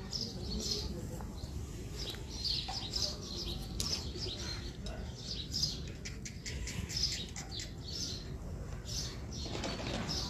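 Small birds chirping repeatedly, short high chirps over a steady low rumble.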